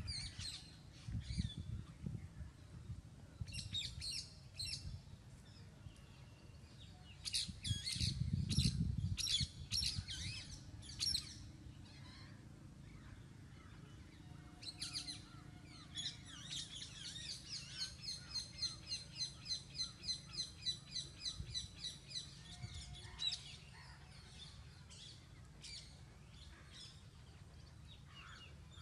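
Several birds chirping and calling in short bursts, with one bird repeating a fast, even note about three times a second for several seconds past the middle. A low rumble comes and goes underneath, loudest about eight seconds in.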